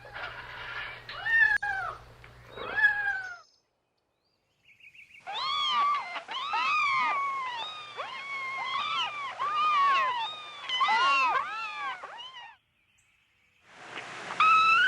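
Kittens meowing in high, arching mews. First comes a handful of separate meows over a faint low hum. After a brief silence there is a long stretch of rapid, overlapping mews from several kittens at once, then after another short gap more meows near the end.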